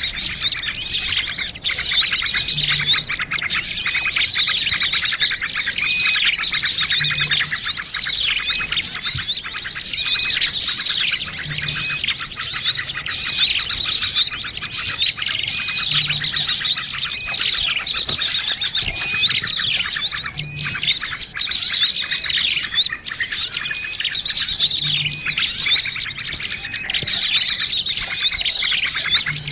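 A dense chorus of many small songbirds chirping and twittering at once, with overlapping quick up-and-down chirps and no let-up. This is a bird-lure recording that mixes the calls of noisy small birds, used to draw wild birds in.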